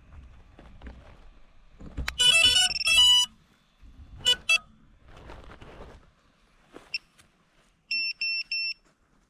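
A 7-inch FPV quadcopter's ESCs playing their stepped startup tones through the motors as the battery is connected, followed by short confirmation beeps and, near the end, three quick even beeps. Soft handling rustle comes between the tones.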